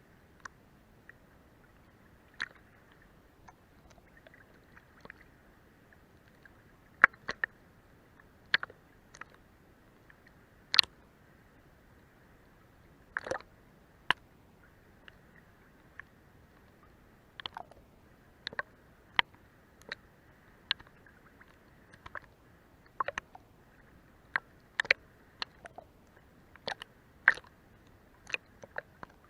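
Sea water lapping under a boat's hull: irregular small slaps and splashes, some sharp, over a faint steady wash.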